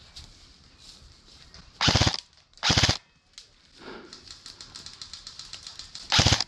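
Airsoft electric rifle (an AK47M replica) firing short full-auto bursts: two quick bursts about two and three seconds in, and another starting near the end. A fainter rapid ticking rattle comes in between.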